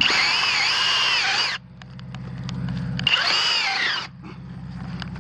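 Kobalt 24V SDS Plus rotary hammer running in reverse in two bursts, about a second and a half and then just under a second, its motor whine rising and falling with the trigger, backing a Forstner bit out of the workpiece.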